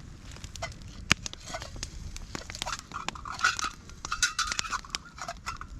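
Campfire crackling, with frequent sharp pops and snaps of burning wood. A wavering higher-pitched sound joins in about halfway through and lasts a couple of seconds.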